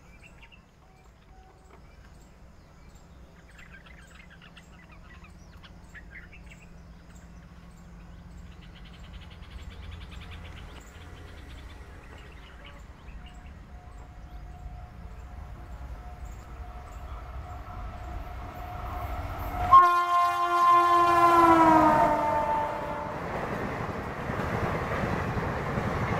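Indian Railways electric locomotive approaching with a growing rumble, then sounding its horn loudly for about three seconds, the pitch dropping as it passes; the horn gives way to the rush and rattle of passenger coaches rolling by at speed. Faint bird calls come before the train.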